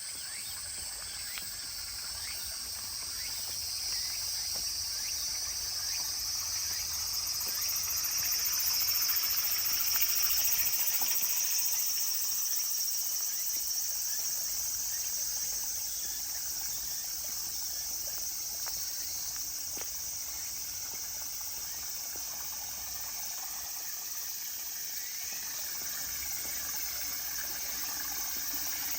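A steady, high-pitched chorus of insects trilling, swelling to its loudest about a third of the way through, over the even trickle of a small stream.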